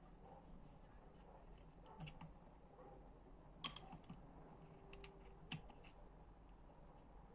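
Near silence broken by a handful of light, sharp clicks and taps as small metal engine parts are handled, the loudest a little over halfway through.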